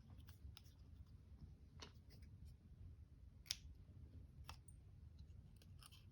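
Near silence with scattered faint clicks from handling small craft tools and materials on a table, one sharper click about three and a half seconds in.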